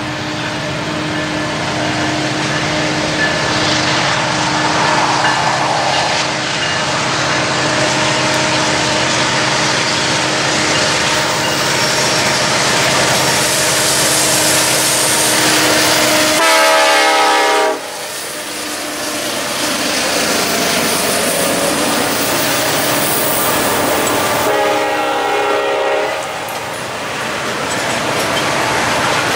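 Freight train with CN diesel locomotives approaching and passing, engines running steadily and growing louder, then freight cars rolling by with wheel clatter. A brief horn blast sounds about 17 seconds in, and a shorter, fainter horn-like tone about 25 seconds in.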